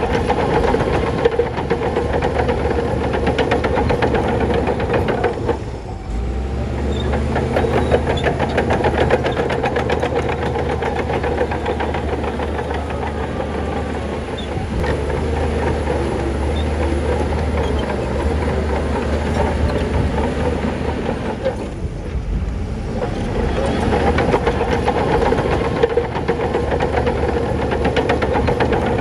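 Shantui crawler bulldozer at work: the diesel engine runs under load beneath a steady, rapid clanking of its steel tracks. The clatter eases briefly twice, about six seconds in and again past twenty seconds, while the low engine note shifts.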